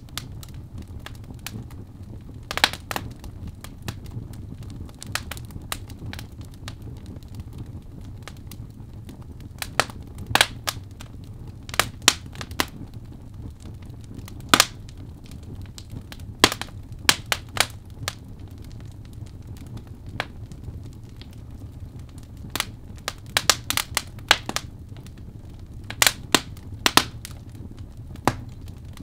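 Birch logs burning in a fireplace: a steady low rumble of flame with irregular sharp crackles and pops, some single and some in quick clusters.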